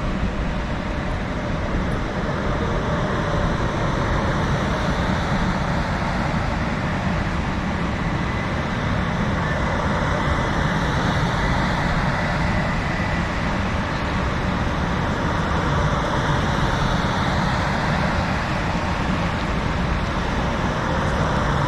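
Steady rumble of passing vehicles, with faint whining tones that slowly glide up and down.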